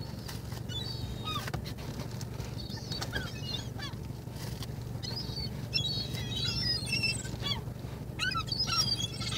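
Seagulls calling over one another as they compete for thrown bread: many short, high, squealing cries coming in bunches, over a steady low hum.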